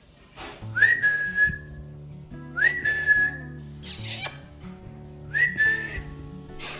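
Three short whistles, each sliding quickly up and then held level for about half a second, over soft background music with steady low notes. A brief harsh hiss comes near the middle.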